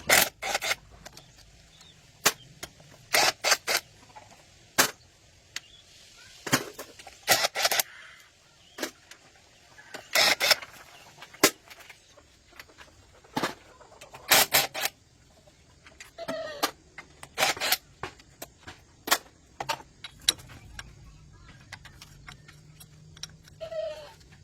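Irregular sharp clinks and knocks, roughly one a second with quieter gaps between, some ringing briefly, as of hand tools being worked on machinery.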